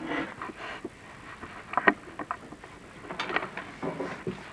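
Inspection camera and its push rod being lowered down a chimney flue, scraping and knocking irregularly against the creosote-coated flue liner, with one sharp knock about two seconds in.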